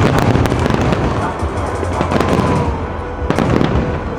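Fireworks going off in quick succession: a dense run of bangs and crackles, with heavier bursts about two seconds in and again about three and a half seconds in.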